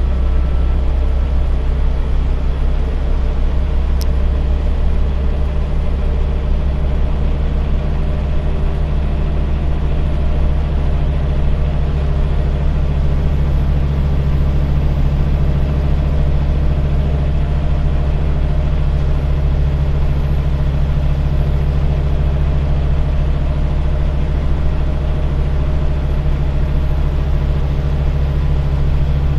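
Scania bus engine running at a steady pace, heard from inside the bus, with a low, even hum. A single faint click comes about four seconds in.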